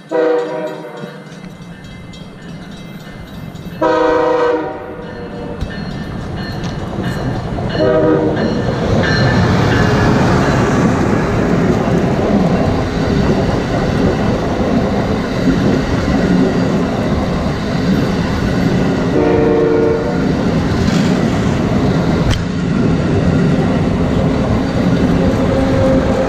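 Amtrak Acela Express trainset sounding its horn four times (two long blasts, a short one about eight seconds in, then another long blast about eleven seconds later) as it comes through at speed. From the short blast on, the loud, steady rush and rail clatter of the passing train fills the sound.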